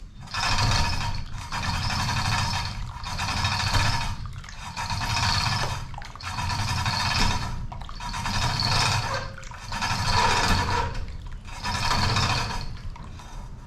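Hydraulic oil gushing and glugging out of an opened, undrained excavator hydraulic cylinder, in rhythmic surges about every one and a half seconds.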